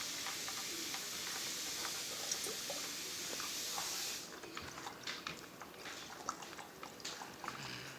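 Water swirling and rushing through a tornado-in-a-tube bottle vortex toy as a steady hiss that stops abruptly about four seconds in, followed by scattered light clicks and taps.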